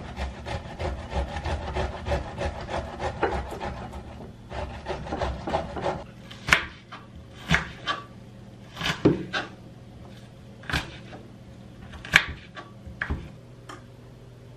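Kitchen food preparation: a run of quick rhythmic rubbing or scraping strokes, about four a second, that stops and starts again briefly. It is followed by a series of separate sharp knocks and clinks of utensils.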